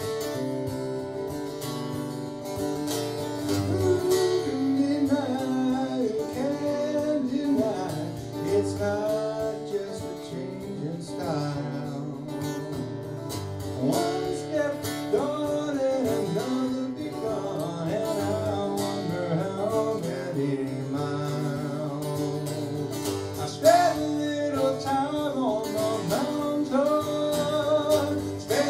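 Acoustic guitar playing an instrumental break: a steady strummed rhythm under a lead line full of bent and sliding notes.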